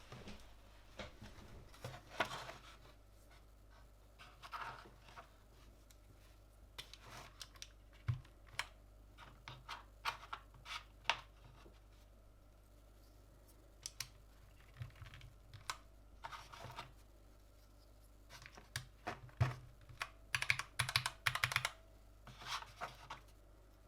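Keys of a Gamakay LK67 mechanical keyboard with Gateron red linear switches being pressed: irregular clacking keystrokes in scattered clusters with pauses between, busiest near the end.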